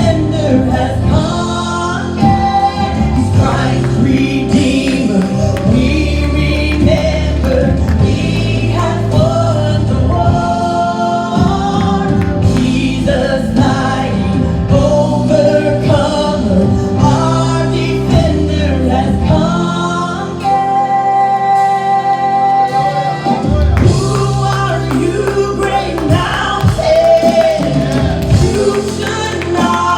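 Gospel worship music: several voices singing a song over instrumental accompaniment with a steady bass line and a beat.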